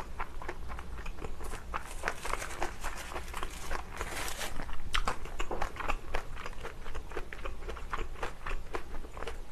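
Close-miked chewing of kimchi fried rice: many quick, wet mouth clicks. Around two and four seconds in, a dry sheet of laver (gim) crinkles as it is handled and wrapped around a bite of rice.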